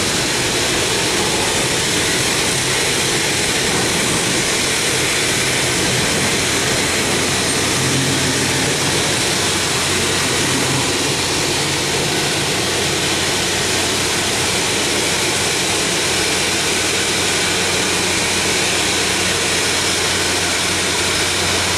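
Double-stack intermodal well cars rolling past on the rails, a loud, steady rush of wheel and rail noise.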